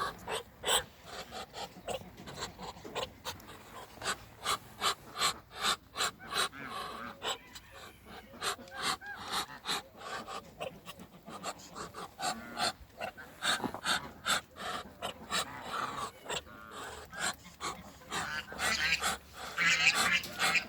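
Muscovy ducks hissing in short breathy puffs, repeated irregularly at about two or three a second, with some higher call-like sounds near the end.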